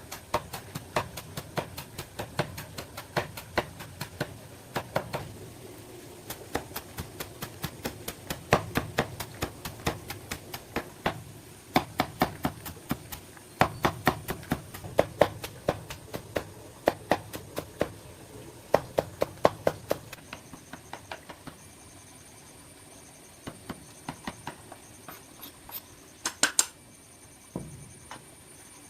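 Rapid, irregular sharp clicks and taps, several a second, that thin out after about twenty seconds.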